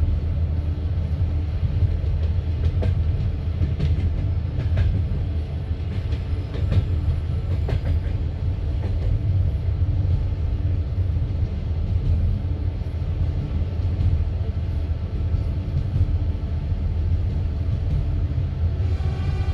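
Passenger train carriage running at speed: a steady low rumble of wheels on rail, with a few sharp clicks of the wheels over rail joints a few seconds in. Just before the end a higher hum joins in.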